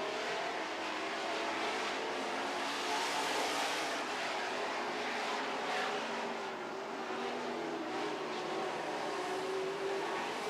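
A field of dirt-track super trucks racing, several engines running hard at once in a steady, overlapping din.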